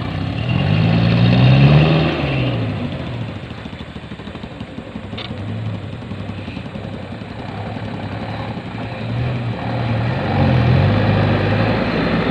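Mitsubishi Canter HDX truck's diesel engine, loaded with oil palm fruit, revving up and easing off, then running steadily, and revving again near the end.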